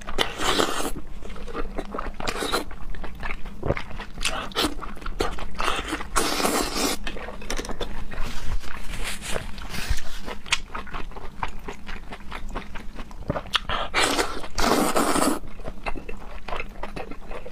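Close-miked eating of raw seafood: wet chewing with many small smacking clicks, and a few longer slurps, one about six seconds in and one near the end.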